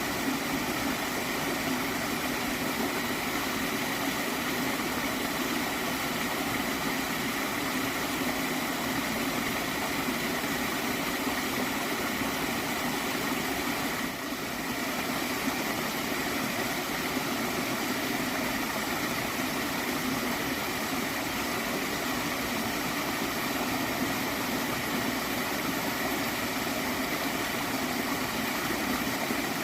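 Small stream of flowing water gurgling steadily, with a brief dip in level about halfway through.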